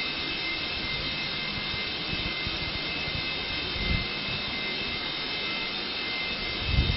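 Steady mechanical rushing drone with a thin, high, steady whine, broken by two brief low thumps, one about four seconds in and one near the end.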